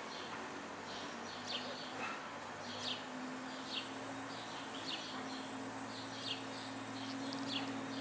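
A small songbird chirping repeatedly, short high falling notes about once a second, over a low steady hum that grows stronger about three seconds in.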